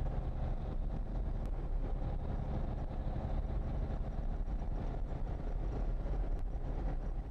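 Heavy truck diesel engine running steadily with a deep, even rumble.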